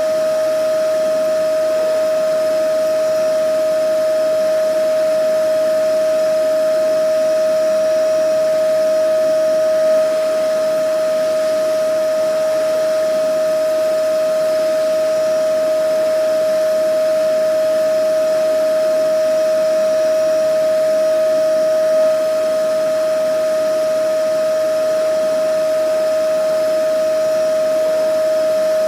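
Vacuum cleaner running steadily: a constant motor whine at one unchanging pitch over an even rush of air.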